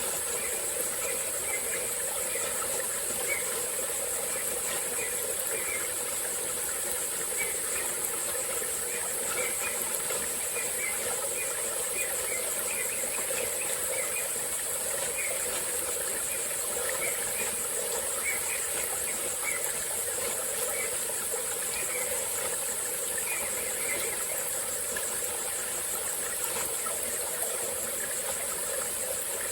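A small tropical forest stream flowing steadily, under a constant high-pitched drone of insects. Scattered short chirps come and go throughout.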